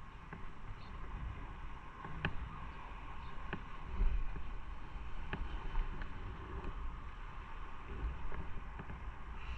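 Motorcycle under way: a steady low rumble of engine and wind on the microphone, with a few faint ticks.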